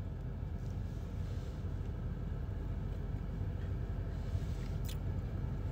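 Steady low hum of a car idling, heard from inside the cabin, with one short click near the end.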